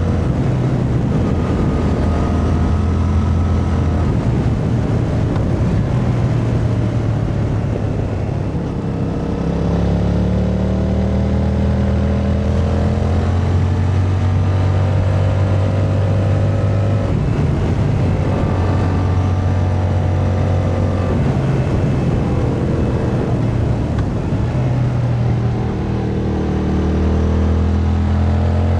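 Yamaha MT-07's 689 cc parallel-twin engine under way, its note climbing as it pulls and dropping at each gear change, several times over.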